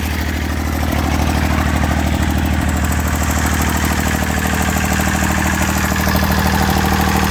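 Massey Ferguson 35's three-cylinder diesel engine running steadily with an even firing pulse, freshly brought back to life by a tow start after years seized.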